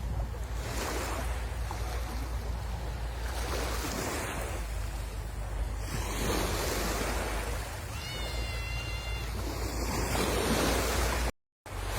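Sea waves breaking and washing ashore in repeated surges, with a steady low rumble of wind on the microphone. A brief high, whistle-like call sounds about eight seconds in, and the sound drops out for a moment near the end.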